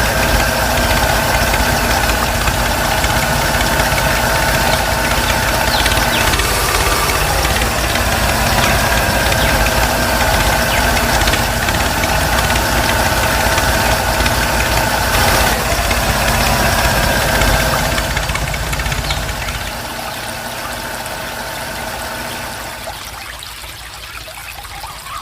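Small motor of a DIY mini tractor running steadily with a whine, then slowing and fading away over the last several seconds.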